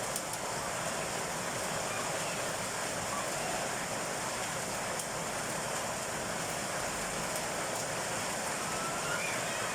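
Heavy rain falling: a steady, even hiss with no thunder.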